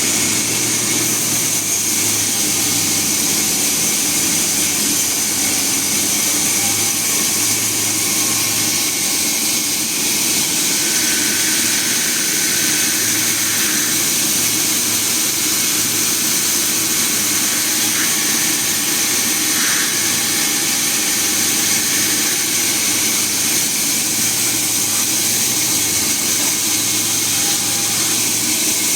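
Sawmill machinery running steadily, a loud continuous drone with a strong high hiss, with a higher whine rising out of it briefly about a third of the way in and again around two-thirds through.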